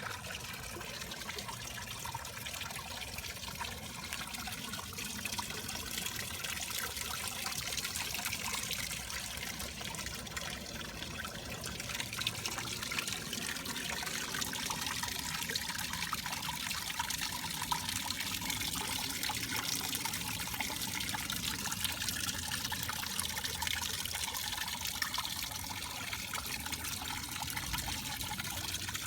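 Water from restored garden fountains splashing and trickling steadily.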